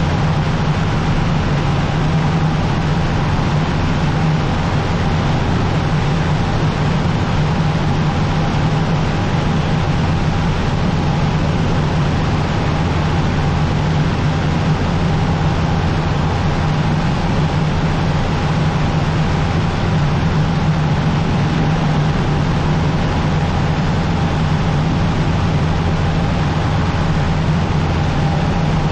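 Cessna 150's four-cylinder Continental O-200 engine and propeller droning steadily in flight, with a constant low hum and a thin steady tone above it.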